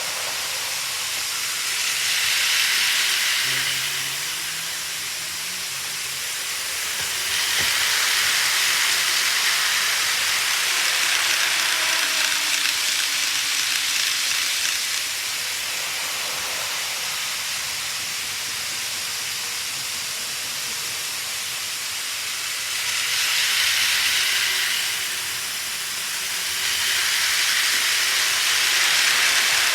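Model trains running on a layout: a rushing hiss of wheels and motors on the track that swells louder and fades again four times as trains pass close by.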